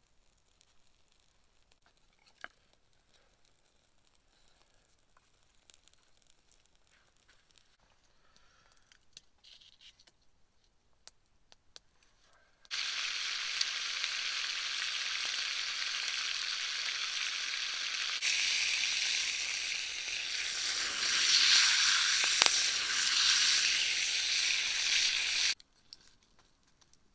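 Beef sizzling as it fries in a skillet over a campfire. The steady, loud sizzle starts abruptly about thirteen seconds in, gets louder partway through and cuts off suddenly near the end. Before it there are only a few faint crackles and clicks.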